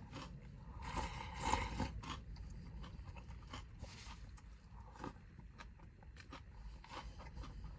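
Faint chewing and mouth sounds of a person eating, with soft irregular clicks and a louder crunchy patch about one to two seconds in.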